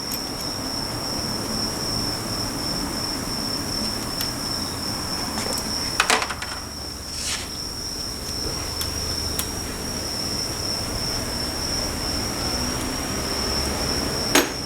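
A few sharp metal knocks from hand tools on a differential carrier held in a vise, over a steady high-pitched whine and low workshop rumble.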